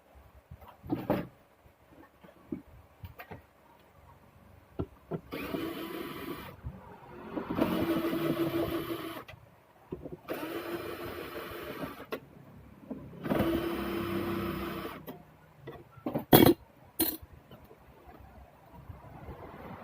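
Plastic case of an Optiquest computer monitor being worked open: a few light clicks, then four rasping stretches of a second or two each. Near the end come two sharp loud snaps about half a second apart, as the case's side latches give.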